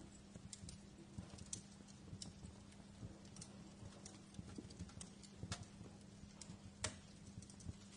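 Wood fire crackling faintly in a fireplace, with irregular small pops and snaps, two sharper pops in the second half, over a steady low hum.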